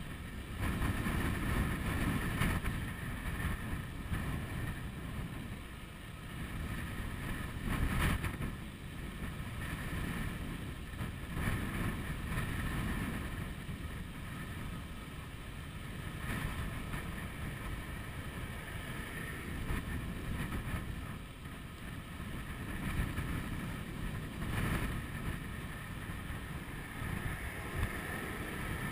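Wind buffeting the camera's microphone during a ride on an electric bicycle, a low rumble that swells and eases in gusts, the strongest about eight seconds in. Under it runs a faint steady high whine.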